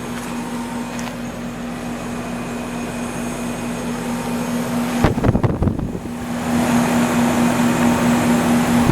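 Trane XE1100 heat pump outdoor units running in cool mode: a steady compressor hum under the even rush of the condenser fan. About five seconds in, wind rumbles on the microphone for about a second.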